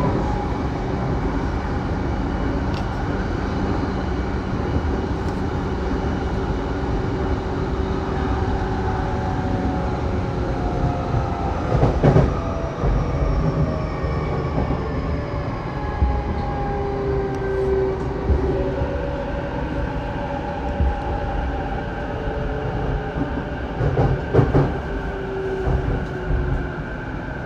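Saikyo Line electric commuter train running, heard from inside the car: steady rumble of wheels on rail with a motor whine whose pitch slowly falls as the train slows. There are clunks over rail joints about halfway through and again near the end.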